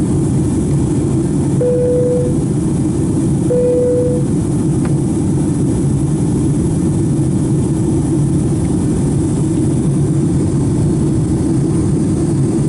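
Steady cabin noise of a Boeing 757-200 climbing, engine and airflow noise heard from inside the passenger cabin. Near the start, two short steady tones at the same pitch come about two seconds apart.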